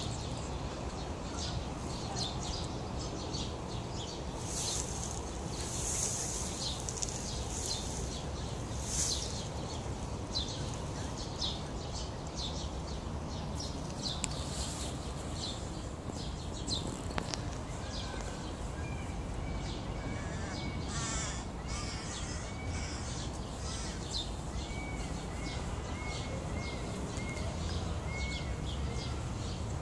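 Birds calling outdoors: many short high chirps through the first half, then a run of short, repeated arcing notes, over a steady low background rumble.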